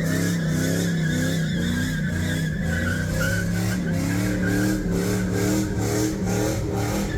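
Car engine held at high revs in a burnout, its pitch wavering up and down, with the tires squealing and spinning against the pavement.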